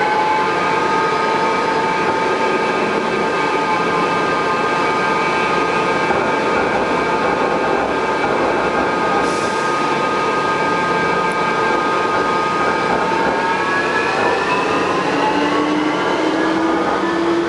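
Rubber-tyred Bombardier automated metro train running, a steady multi-tone whine over the running noise, rising a little at first and shifting in pitch near the end. The whine is the abnormal noise that the uploader says these ageing Bombardier trains develop in service.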